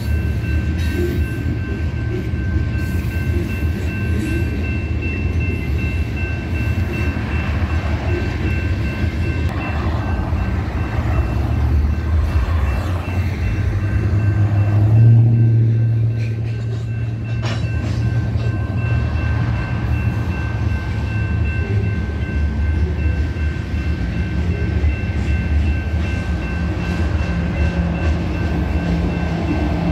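Freight train of covered hopper cars rolling through a grade crossing: a steady rumble of wheels on rail, with the crossing bell ringing in a steady high tone over it. A truck's engine swells briefly about halfway through, and diesel locomotive engines hum in near the end.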